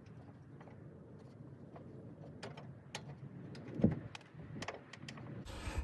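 Scattered light clicks and taps of hand tools on metal as a nut is worked off, with one louder knock about four seconds in and a short scraping rustle at the end.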